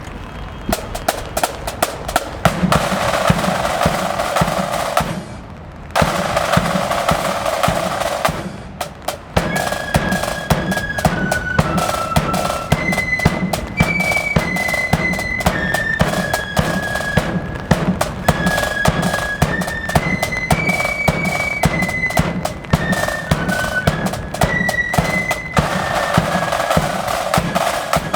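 Marching flute band: snare drum rolls and bass drum strokes, with a short break about five seconds in. From about ten seconds in, the flutes join, playing a tune over the drums.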